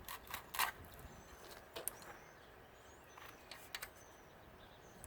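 A few light clicks and knocks of metal parts being handled while a central air unit part is opened, most of them in the first second, with faint short high chirps behind.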